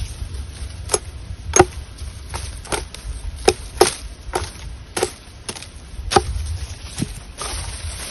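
Wood being struck repeatedly, as in chopping: about a dozen sharp knocks at an uneven pace, one or two a second, some with a brief woody ring, over a steady low rumble of wind and river.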